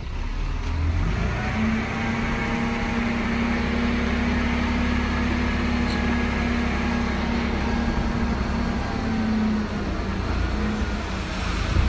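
Heavy diesel engine of an earth-moving machine running steadily, its hum coming up about a second in and holding, easing a little near the end.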